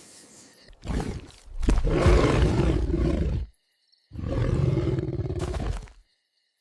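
Big cat roaring: a short call about a second in, then two long roars of about two seconds each with a brief pause between them.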